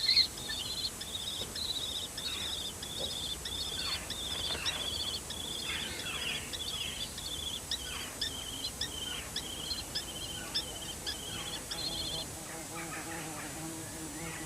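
Common kestrels calling: long runs of rapid, rippling high kee-kee calls repeated over and over, with shorter falling cries mixed in, stopping near the end.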